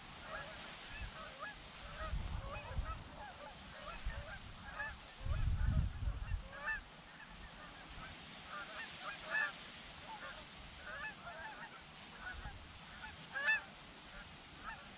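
Many geese honking, a dense run of overlapping calls from a flock. Wind gusts buffet the microphone twice, the stronger one around the middle.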